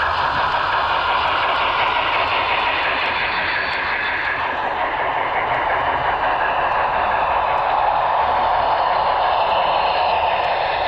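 HO scale model train running along the layout track: a steady whirring rush of motor and wheels on rail.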